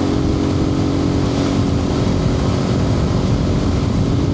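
Suzuki TU250X's air-cooled single-cylinder engine running at a steady cruise, with a constant hum and wind and road rumble underneath, heard from a microphone inside the rider's helmet.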